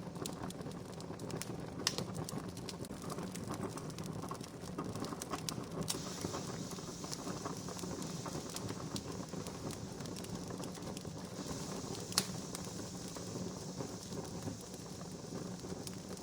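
Wood campfire crackling steadily with scattered small snaps, and two sharper pops, one about two seconds in and one about twelve seconds in.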